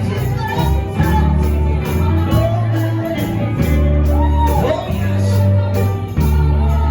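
Loud live church music with a heavy bass line changing note every second or so, and voices singing and shouting over it, echoing in a large hall.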